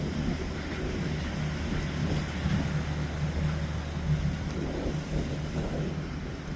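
Trawler's engine running steadily as it heads out through the inlet, a low even hum, with wind buffeting the microphone.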